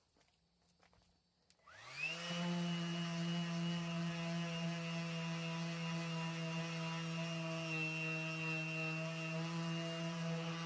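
A handheld electric power tool, of the kind used to sand and polish boat gelcoat, is switched on about two seconds in. Its motor whine rises quickly to a steady pitch and runs on evenly. A few faint ticks come before it starts.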